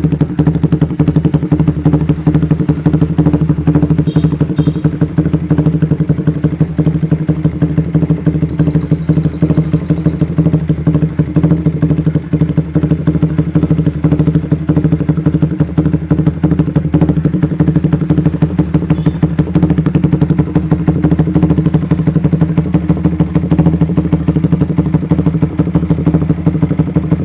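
Yamaha Vixion's single-cylinder four-stroke engine idling steadily through an aftermarket Twotone exhaust, with a fast even exhaust pulse and no revving.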